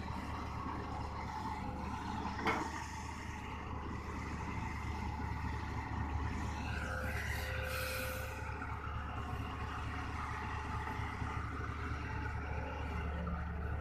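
Hitachi ZX200-1 hydraulic excavator's diesel engine running steadily as it loads soil into a dump truck. There is a sharp knock about two and a half seconds in, and a hissing, rustling spell around the middle.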